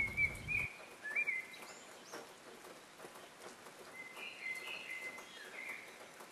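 Songbirds chirping faintly, a handful of short calls scattered over a quiet hiss. A low rumble cuts off under a second in.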